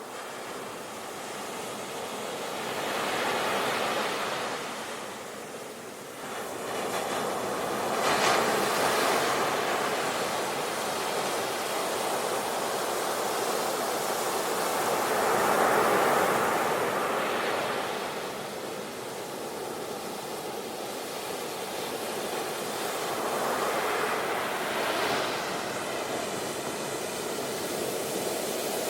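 Sea waves breaking on the shore: a continuous wash of surf that swells four times, each wave surging in and draining away over several seconds.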